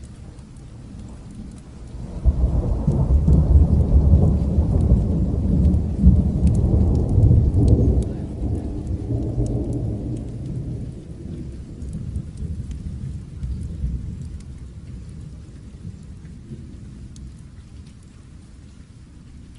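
A long roll of thunder over steady rain. The rumble comes in suddenly about two seconds in, stays strong for several seconds, then slowly dies away under the rain's hiss and light patter.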